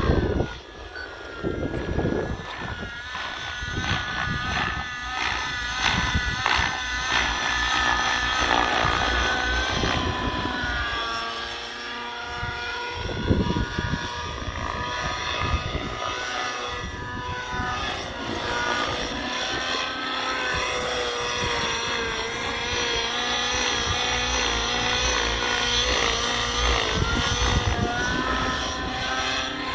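Nitro-fuelled O.S. 105 HZR engine of a Whiplash 730 RC helicopter running in flight through a Powerboost tuned pipe. Its pitch rises and falls over and over as the helicopter manoeuvres.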